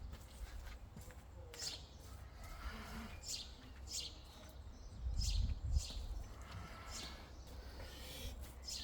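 A bird chirping: short, high chirps that slide downward, about one every second or two, over a low steady rumble that swells for about a second a little past the middle.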